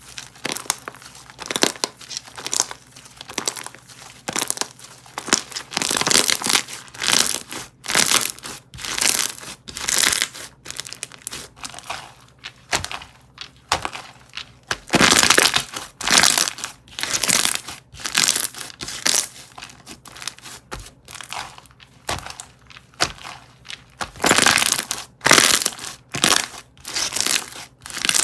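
Slime being squeezed, poked and stretched by hand, giving dense, irregular crackling and popping with louder bursts now and then.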